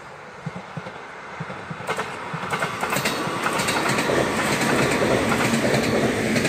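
JR Shikoku 7000 series electric train passing at speed. Its wheels click over rail joints, scattered at first, then rapid clickety-clack over a steady rush of running noise. The sound grows louder over the first few seconds as the train draws level.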